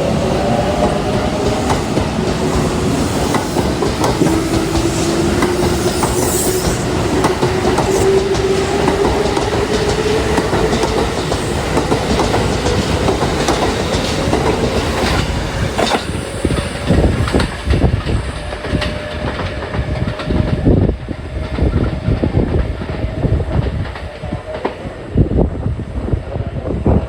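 Kintetsu electric multiple-unit train of coupled 1430, 2410 and 2430 series cars running through the station: a motor whine climbs steadily in pitch as the train gathers speed, over rolling noise and wheels clicking over rail joints. About two-thirds of the way through the rolling noise drops, leaving sharper, more widely spaced wheel clicks.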